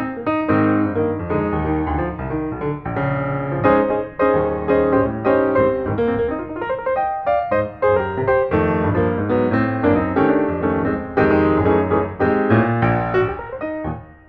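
Background piano music: a continuous run of notes with chords, no voice.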